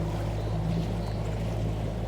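Yamaha outboard motor running at a steady speed, a low even hum, with water and wind noise over it.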